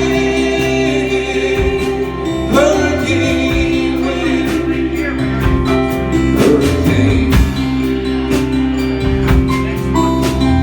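A live band plays the closing bars of a rock ballad over held chords, with wordless sung vocal lines rising and falling.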